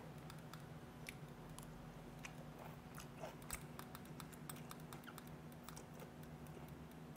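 Close, quiet chewing of a piece of fermented skate (hongeo): a string of small irregular wet mouth clicks and smacks over a faint steady room hum.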